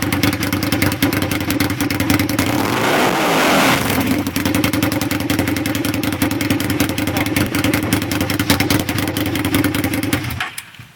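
Motorcycle engine running loud with no muffler, straight-piped. It is revved up once about three seconds in, settles back to a steady run, and cuts off near the end.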